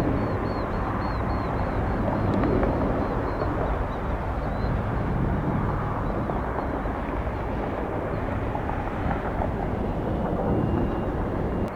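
Jet airliner engines heard from the ground as a steady rumble that slowly eases.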